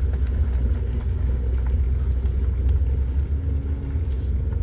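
Low, steady rumble inside the cabin of a Mercury Montego sedan driving slowly over a rough, potholed dirt-and-broken-pavement trail, with light scattered knocks and rattles from the body and suspension.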